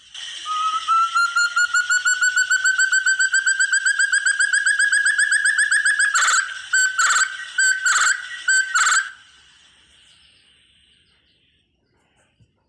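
Hill partridge (puyuh hutan, burung terung) calling: a long, fast run of whistled notes that slowly climbs in pitch, then a handful of louder, longer whistles before it stops about nine seconds in. A steady insect hiss runs underneath.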